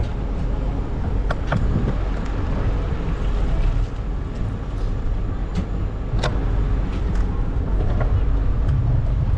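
Steady street traffic noise with cars going by and a heavy low rumble, broken by a few sharp clicks about a second and a half in and again around six seconds.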